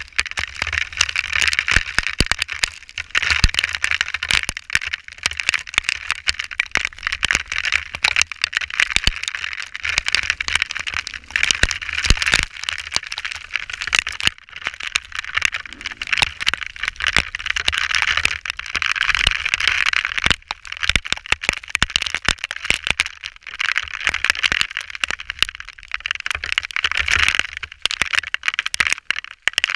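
Hail pelting down: a dense, irregular clatter of hailstone impacts over a rushing noise that swells and fades every few seconds.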